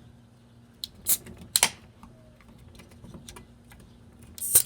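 Two beers being opened, one after the other: sharp cracks, each followed by a short hiss of escaping gas.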